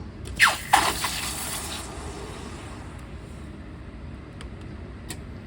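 Two sharp knocks, then a loud hissing sizzle that fades away over about a second and a half: freshly poured hot copper being quenched in water.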